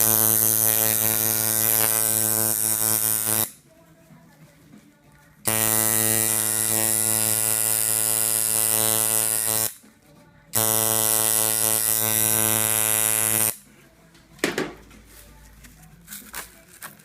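Tattoo machine running in three bursts of about three to four seconds each, a steady electric buzz that stops and starts again between passes, followed by a few faint clicks near the end.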